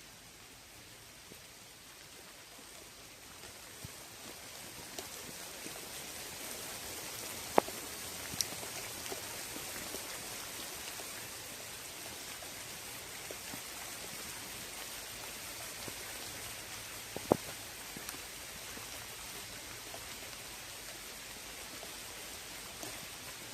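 Rain shower falling on a lake: an even hiss of rain that swells over the first several seconds and then holds steady, with now and then a single close drop tapping sharply, two of them much louder than the rest.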